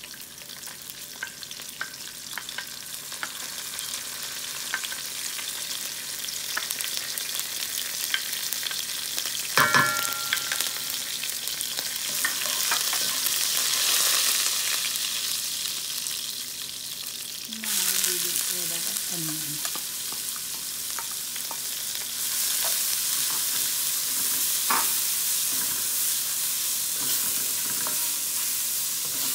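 Cumin seeds and curry leaves sizzling in hot oil in a pot while a spatula stirs them, with a sharp knock against the pot about ten seconds in. About eighteen seconds in, chopped onion goes into the oil and the sizzle suddenly gets louder.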